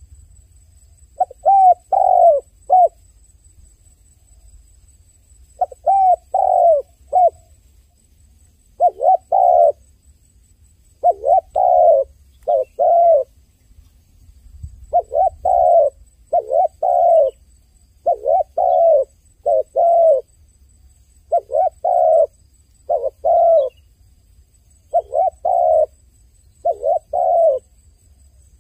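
A dove cooing: short phrases of three or four coos, each repeated about every two seconds, with a longer pause after the first phrase.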